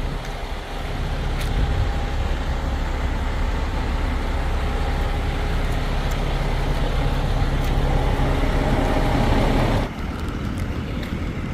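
Heavy trucks' diesel engines running, a steady low rumble with a whine that climbs slightly in pitch, dropping away abruptly just under ten seconds in.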